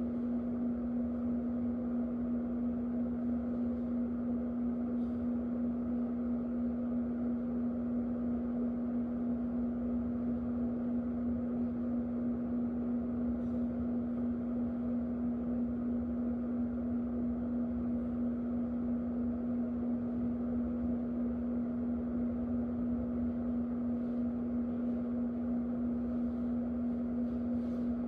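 Electric fan running steadily: a constant motor hum under an even rush of air, with a few faint ticks.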